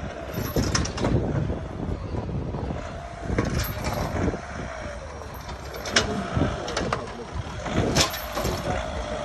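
Street noise with a motor vehicle engine running and a faint tone that wavers up and down, broken by a few sharp clicks or knocks.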